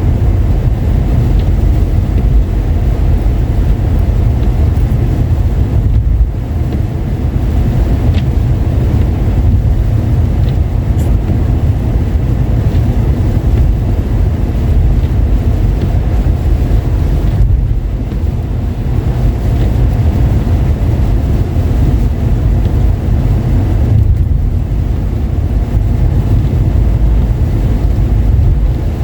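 Steady low rumble of road and engine noise heard inside a moving car, driving on a wet, snowy road.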